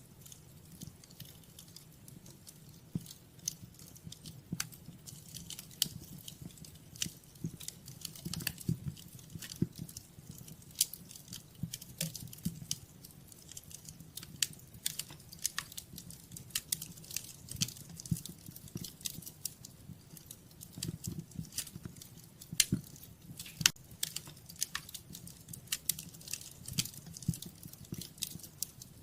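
Wood fire crackling, with frequent irregular sharp pops and snaps over a low steady rumble of the flames.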